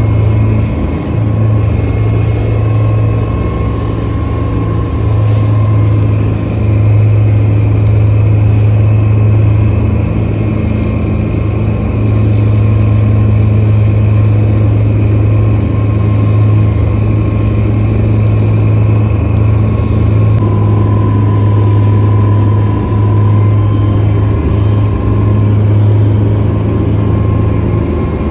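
Charter fishing boat's engine running steadily, with a loud, even low hum.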